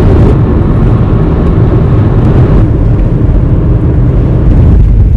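Strong wind buffeting the microphone: a loud, unsteady low rumble that eases a little in its upper range about two and a half seconds in.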